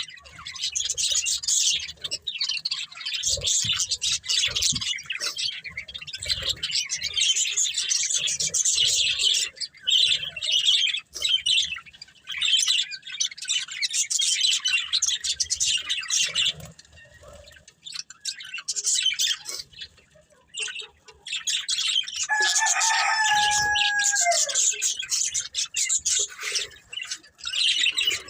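Budgerigars chattering and chirping continuously, quieting down briefly past the middle. A longer, steady call that drops in pitch at its end comes about 22 seconds in.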